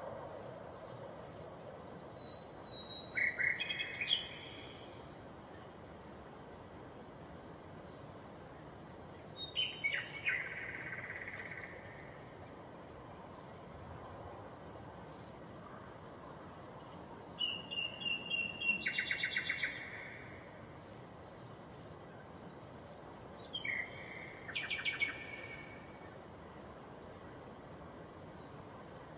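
A songbird singing four short phrases several seconds apart, each made of clear whistled notes and a fast trill, over a faint steady outdoor background.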